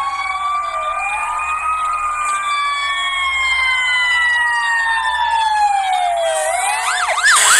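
Sirens of an ambulance and fire engines wailing together, several tones slowly rising and falling and overlapping. Near the end, a faster yelp begins, sweeping up and down about two to three times a second.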